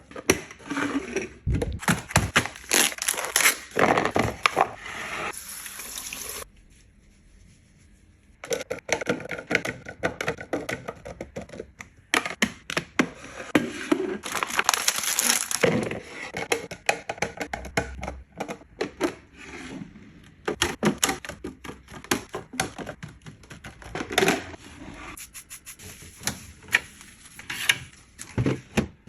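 Plastic fridge organizer boxes and food being handled and packed: many quick clicks, knocks and rustles, with stretches of hissing noise and a short lull about six seconds in.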